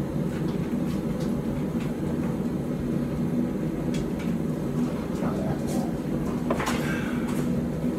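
Blacksmith's forge running with a steady low hum and rumble, with a few faint clicks and a short rustle near the end.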